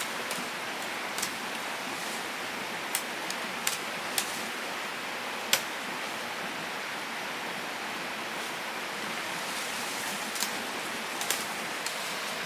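Steady rush of flowing river water, with scattered short sharp clicks over it, the sharpest about halfway through.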